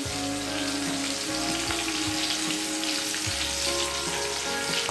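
Oil sizzling steadily in a frying pan as green chillies, mint and fenugreek leaves fry, with held musical tones underneath.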